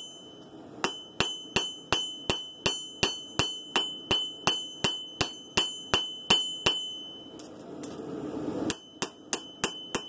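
Hammer blows on hot san mai blade steel over an anvil, a steady rhythm of nearly three ringing strikes a second as the blade is drawn out. Near the end the hammering stops for about a second and a half with a low rushing noise, then resumes.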